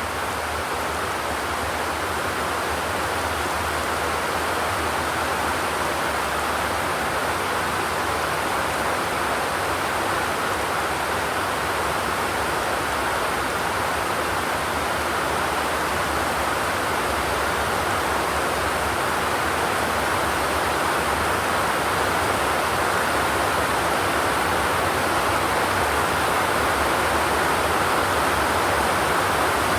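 Steady rain falling on a zinc roof: an even hiss of countless drops, with no single impacts standing out, growing slightly louder over the stretch.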